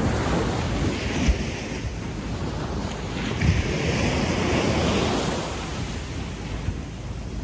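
Small waves breaking and washing up a sandy beach: one wash swells just as it begins and another builds a few seconds in, with low thumps of wind on the microphone.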